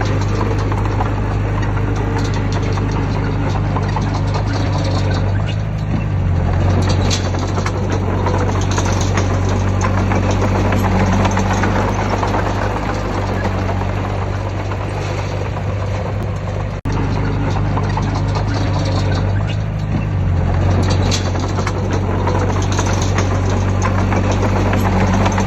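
Diesel engine of heavy earthmoving machinery running steadily at working load, its low note shifting a couple of times as the load changes, with a brief cut-out about two-thirds of the way through.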